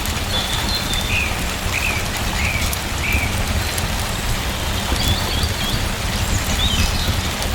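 Steady rain falling, with a deep low rumble under it, while a small bird chirps a few short notes at a time.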